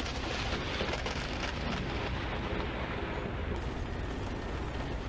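Steady hiss of heavy rain during a thunderstorm, with a low rumble underneath. About three and a half seconds in the highest part of the hiss cuts off abruptly.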